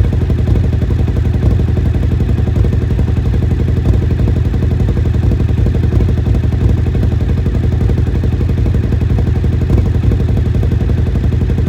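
Suzuki TL1000R's 90-degree V-twin engine running at a steady idle, an even low pulsing beat with no revving.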